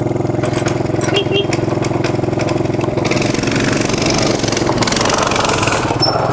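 Mini bike engine idling steadily, then running harder about three seconds in, with a hiss of noise over it for a few seconds.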